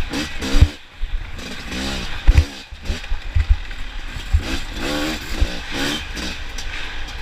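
Off-road racing motorcycles revving hard as they pass, their engine pitch rising and falling several times, over low thumps.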